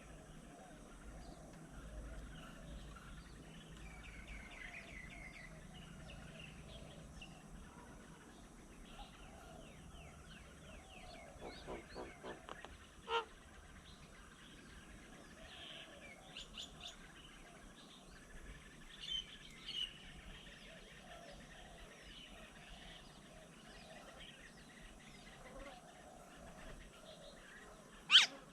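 Small birds chirping and calling on and off, with a quick run of clicks about twelve seconds in and one sharp, loud click just before the end.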